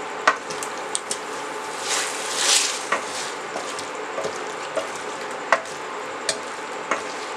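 Beef liver in thick masala sizzling in a stainless steel pan while a wooden spatula stirs it, with a steady hiss, a few sharp knocks of the spatula against the pan, and a louder scraping swell about two and a half seconds in. The masala is frying down until the ghee separates.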